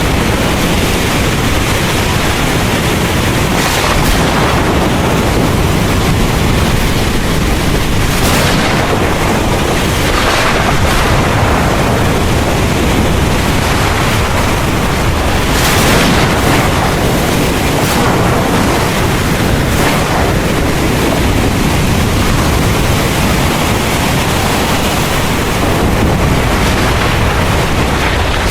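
Heavy rain pouring steadily, with a few brief louder swells of hiss.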